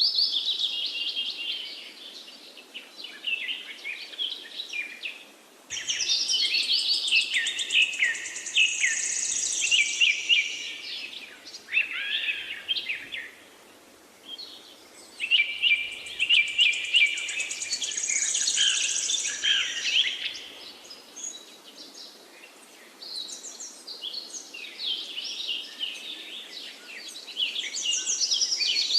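Several songbirds singing and calling together: bouts of rapid chirps, trills and warbles, some rising and falling, with short lulls between them over a faint steady hiss.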